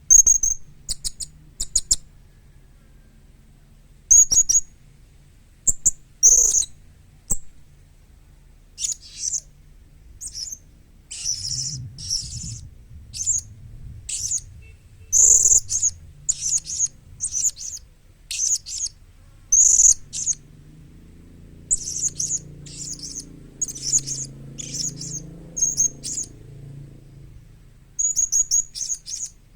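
Young blue-crowned hanging parrot (serindit) calling: a long series of short, high-pitched chirps, some single and some in quick runs, with a pause of about two seconds shortly after the start and another shortly before the end.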